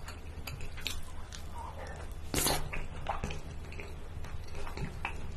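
Close-miked wet chewing and mouth noises from a mouthful of king crab meat in melted cheese sauce. Irregular small clicks and squishes, with one louder wet burst about two and a half seconds in.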